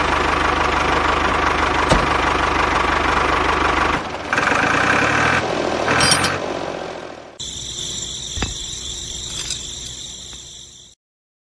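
A motor running steadily. Its sound changes abruptly about four seconds in, and again to a quieter, higher-pitched run past seven seconds, then cuts off suddenly near the end.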